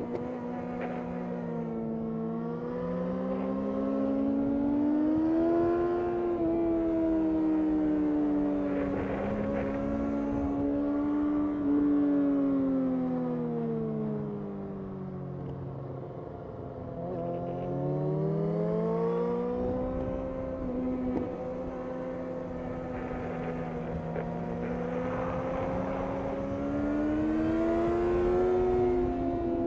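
2005 Yamaha R6's inline-four engine running at high revs on track, its pitch rising under throttle and falling back repeatedly through gear changes. About halfway through it drops to its lowest and quietest, then climbs again.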